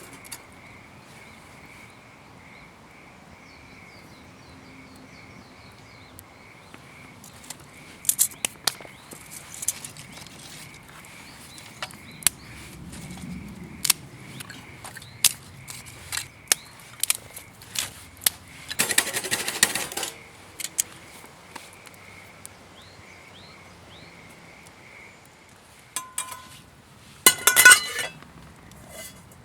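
Scattered clinks and knocks of cooking utensils and cookware, with a short burst of noise about two thirds of the way through and another near the end, over a faint, steady, pulsing high tone.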